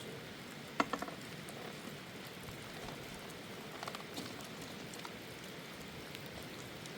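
Steady rain falling, with a few sharp clicks or knocks, the loudest a little under a second in.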